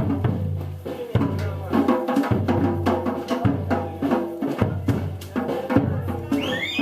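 Samba street percussion group (bateria) playing a fast, busy rhythm: deep surdo bass drums booming under many quick, sharp drum and percussion strikes. A high gliding tone enters near the end.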